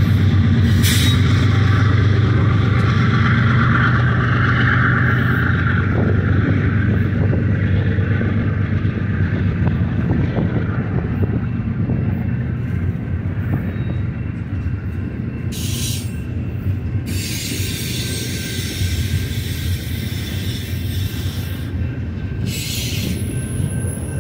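Double-stack intermodal container train rolling past: a steady rumble of well-car wheels on the rails that eases off slowly. Two brief hissing bursts come in the second half.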